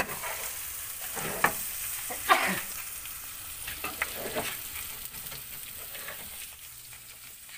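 Eel and catfish pieces frying in oil with chilli sambal in a metal pan, sizzling steadily while a metal spatula stirs them and scrapes against the pan, with sharper scrapes about one and a half and two and a half seconds in. The sizzle eases off near the end.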